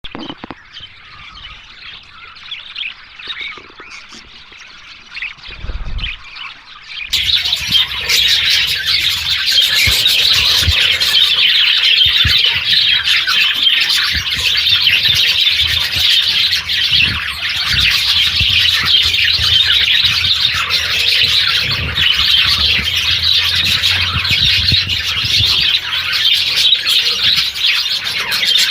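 Flock of small pet parrots chattering, chirping and squawking in a dense, continuous chorus. It is thinner and quieter for the first several seconds, then much louder from about seven seconds in.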